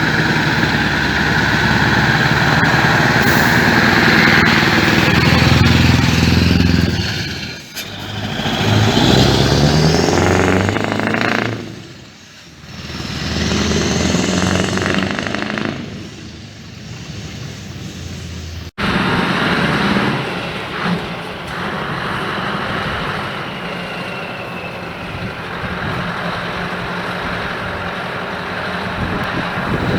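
Scania V8 truck engines with open exhaust pipes: a loud engine rising and falling in pitch as it accelerates, with two brief drops about a third of the way in. After a sudden cut, a steadier, somewhat quieter run follows.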